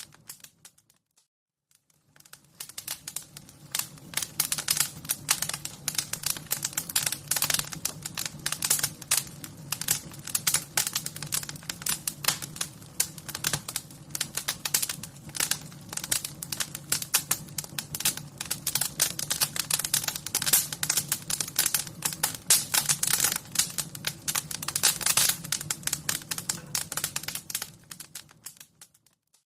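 Wood fire crackling: a dense stream of irregular pops and snaps over a low, steady hum. It fades in about two seconds in and fades out near the end.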